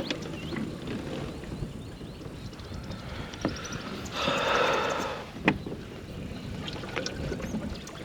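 Kayak being paddled across open water: water swishing and dripping off the paddle, with a louder splashing stroke about four seconds in and a few sharp knocks.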